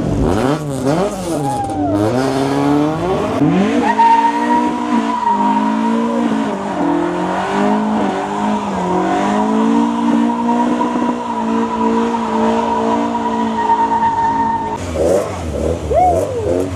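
Car engine revving, its pitch rising and falling, then held high for about ten seconds under a steady high squeal, typical of spinning tyres. The squeal cuts off near the end, when the revving picks up again.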